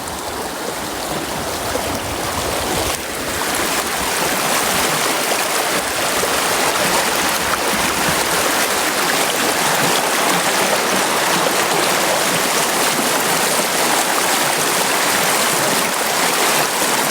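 A brook running, a steady rush of water that grows louder about three seconds in.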